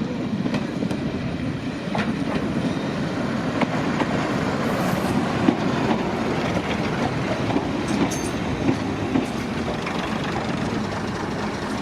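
Heritage railway train running along the track: a steady rumble with scattered clicks and knocks from the wheels on the rails.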